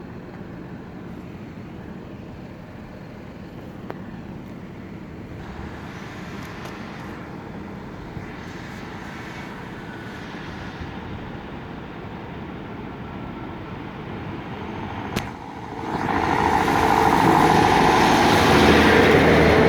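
Steady background noise, then a sharp click, then a train coming into the level crossing: its sound rises quickly about three-quarters of the way in and stays loud to the end.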